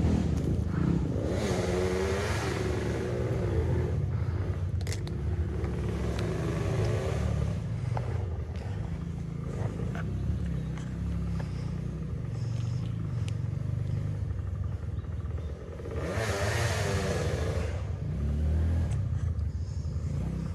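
Dirt bike engine running at low revs throughout, with two louder spells where the throttle is opened and the pitch rises and falls, about two seconds in and again near sixteen seconds. A few sharp knocks come in between.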